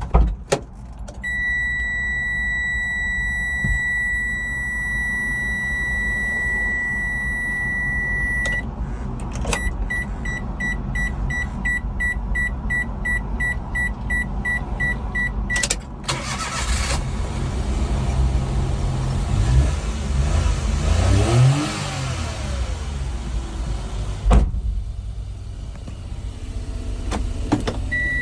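Daihatsu Hijet Truck's three-cylinder kei engine being started. A steady warning tone sounds first, then a run of evenly pulsed beeps. About 16 s in the starter cranks and the engine catches; it is revved up and down a couple of times, then settles to a steady idle.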